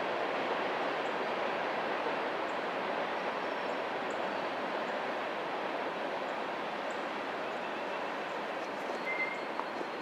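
A passing train: a steady, even rumble and rush of rolling cars on the rails that eases off a little near the end.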